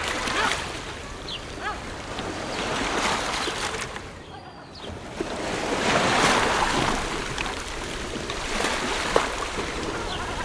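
Ocean waves breaking and washing on a shore. The surf falls to a lull about four and a half seconds in, then a new wave builds to its loudest around six seconds.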